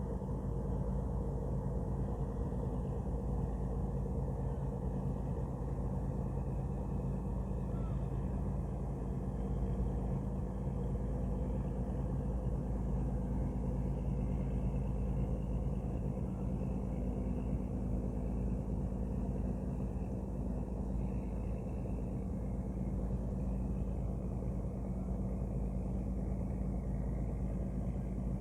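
Ship's engine running with a steady low drone. Several even tones sit in the hum and hold without rising or falling.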